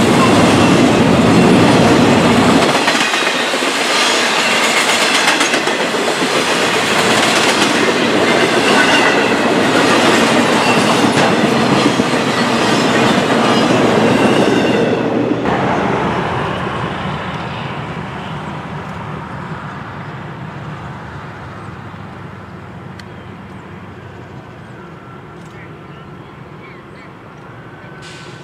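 Freight cars rolling past at speed, wheels clattering over the rails, loud at first. About halfway through the end of the train goes by and the sound falls away to a fading rumble.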